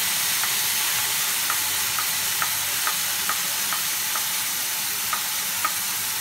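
Onion, tomato and spice masala sizzling steadily in a kadhai, with faint light ticks scattered through.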